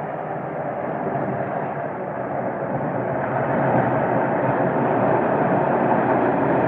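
Steady roar of wind from a tornado, growing louder about three seconds in.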